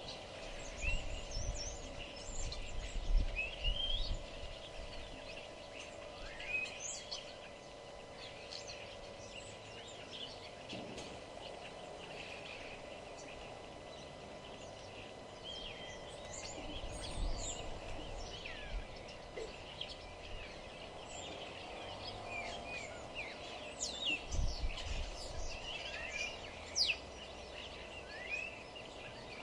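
Several wild birds singing and calling over one another: many short chirps and quick whistled glides, over a steady low hum with a few brief low rumbles.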